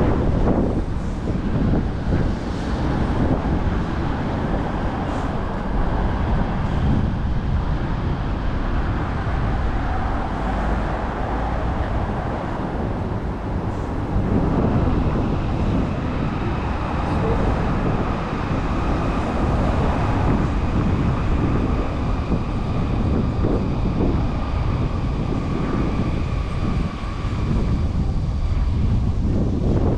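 Wind buffeting the microphone over city street traffic, a steady low rumble; faint thin high tones sound through the second half.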